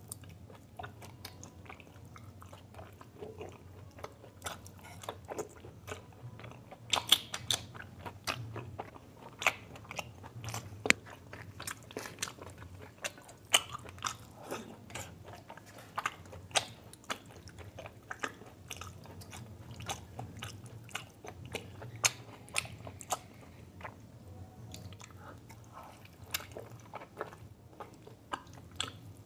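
Close-miked chewing and biting of a mutton curry meal with paratha: a steady run of irregular sharp mouth clicks and smacks, several of them louder than the rest.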